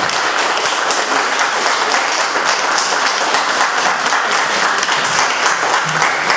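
Audience in a hall applauding steadily, with many hands clapping at once.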